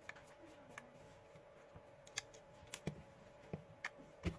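Faint, scattered small clicks and taps as the cutter head is taken off a Philips electric shaver, growing more frequent in the second half.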